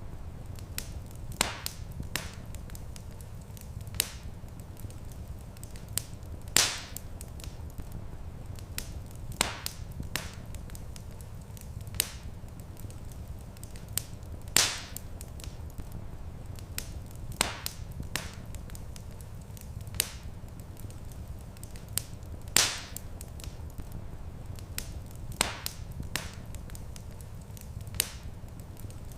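Wood fire burning in a stone fireplace: sharp crackles and pops every second or two, some louder than others, over a steady low rumble.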